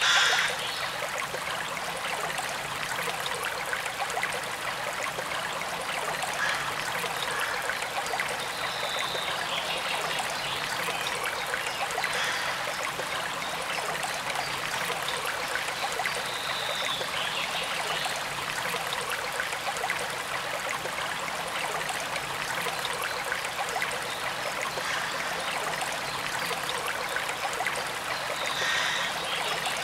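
Forest stream running steadily, water trickling over an even rushing sound, with a brief louder burst right at the start.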